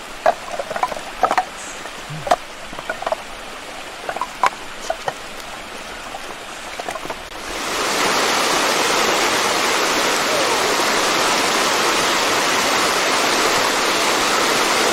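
Scattered short clicks and splashes over a low background, then about halfway in a steady rush of flowing stream water starts abruptly and continues at a high level.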